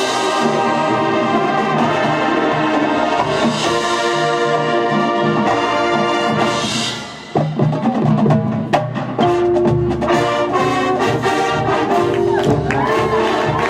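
High school band playing a loud brass-and-percussion piece, with horns holding chords over drums. It comes in suddenly at full volume, dips briefly about seven seconds in, then returns with sharp drum hits under the brass.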